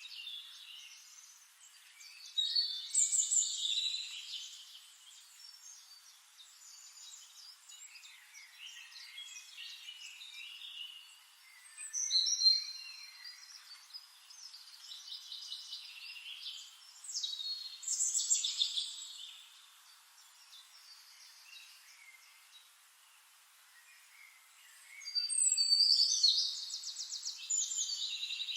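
Songbirds singing in bursts of quick, high chirps and trills over a faint steady hiss. The loudest phrases come about 3, 12, 18 and 26 seconds in, and the last is a fast run of repeated notes.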